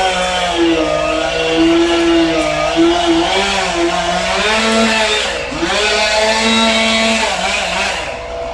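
Chainsaw engine running at varying throttle as it cuts, its pitch dropping under load and rising again a few times.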